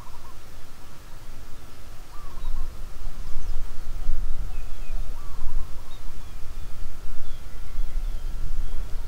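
Birds calling: a short run of chirping notes, repeated three times, with higher chirps in between, over a low rumble that grows louder about three seconds in.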